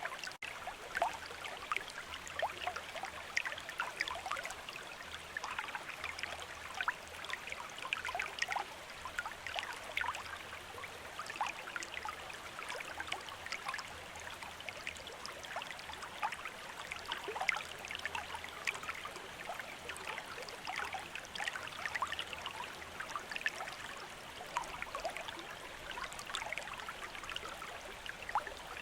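River water running: a steady babble of many small trickles and splashes.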